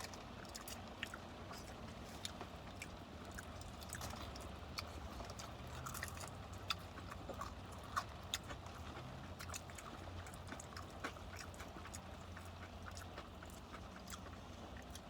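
Chewing and crunching on crispy fried chicken: scattered small crunches and wet mouth clicks, a few louder ones around the middle, over a steady low hum.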